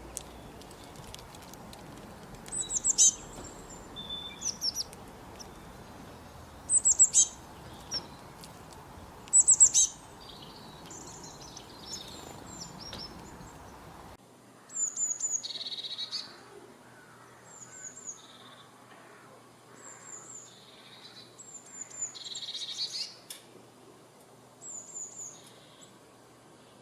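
Songbirds chirping: short, high-pitched chirps and trills in bursts every couple of seconds. A steady background hiss drops away about halfway through, leaving the chirps over a quieter background.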